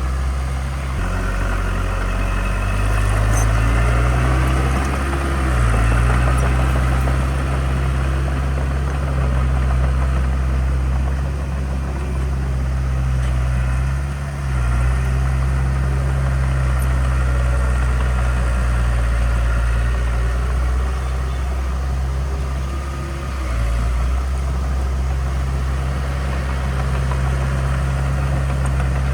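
Heavy diesel engine of earthmoving equipment running steadily, its low drone dipping and shifting in pitch several times as the load changes.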